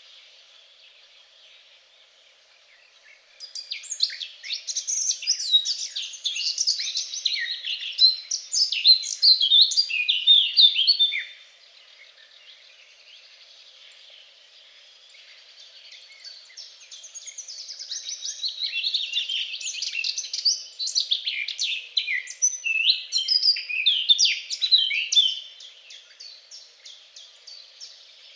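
A songbird singing two long phrases of rapid, varied notes, each lasting several seconds with a pause between them, while other birds call faintly and steadily behind.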